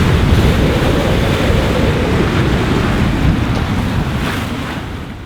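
Strong wind buffeting the microphone over the rush of the sea in a squall, fading out near the end.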